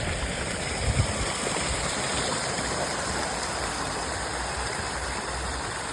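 Fountain water splashing in a steady rush, with a couple of brief low bumps about a second in.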